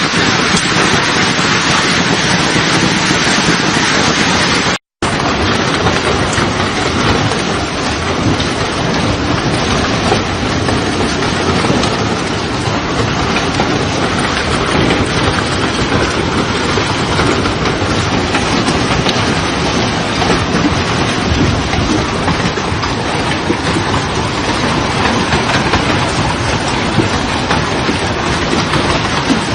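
Heavy hail pelting down in a dense, continuous clatter, broken by a split-second dropout about five seconds in.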